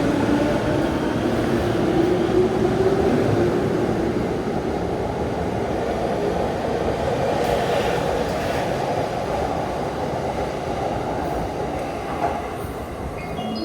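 Tokaido Line electric train running at the platform, a faint motor whine over steady wheel and rail noise, slowly fading.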